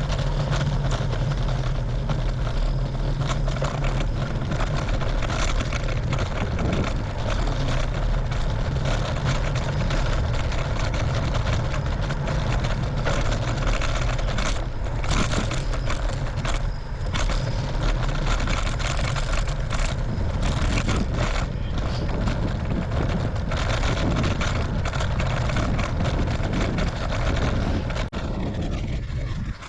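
Strong wind buffeting the microphone while cycling into a headwind: a loud, steady low rumble with irregular gusty flickers, dropping off just before the end.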